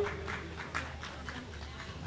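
A small audience clapping: a sparse patter of hand claps that thins out after about a second and a half.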